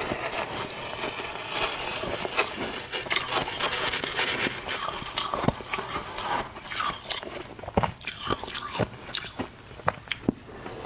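Someone biting and chewing flaky freezer frost close to the microphone, a dense crunching that thins after about halfway into separate sharp crunches.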